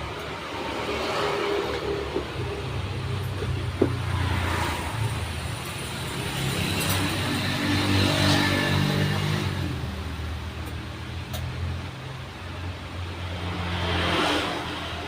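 Road traffic passing by, several vehicles one after another, each engine rising and fading as it goes past.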